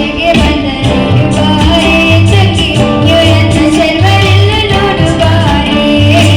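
Kannada devotional song: a voice singing a wavering melody over instrumental accompaniment, with a regular low beat.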